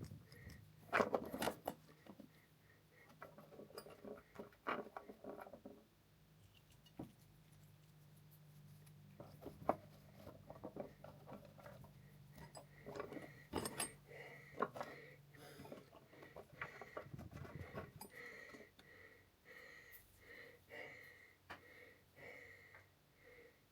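Faint clinks and knocks of metal tools and small parts being handled, with a low steady hum through much of it. Near the end a faint tone pulses about twice a second.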